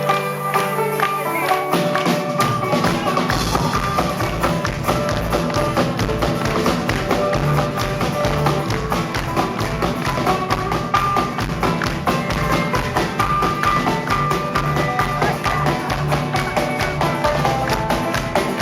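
Live band playing an instrumental passage with fast, steady percussion, the bass coming in about three seconds in.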